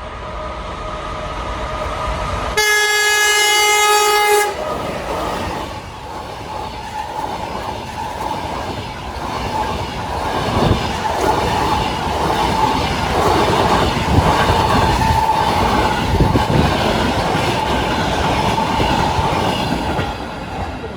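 EP2K electric locomotive sounding its horn in one blast of about two seconds. It then runs through with its passenger train without stopping: a steady rumble of the train passing, with wheels clattering over the rail joints, which builds and then fades near the end.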